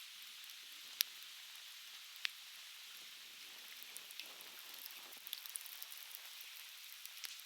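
Conifer firewood crackling in a campfire: two sharp pops about one and two seconds in, then scattered small crackles, over the steady hiss of a flowing stream.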